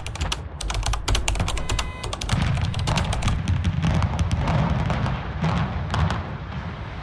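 A rapid series of sharp cracks and pops for about two seconds, then a low rumble with scattered cracks over it.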